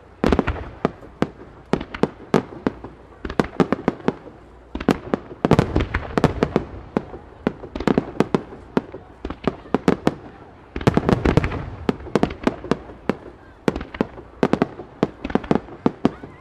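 A Japanese starmine fireworks barrage: aerial shells burst in quick succession, many sharp bangs coming in dense volleys with brief lulls between them, over a low rumble.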